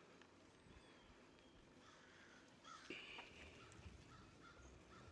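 Ducks quacking faintly: one louder call about three seconds in, then a run of short quacks.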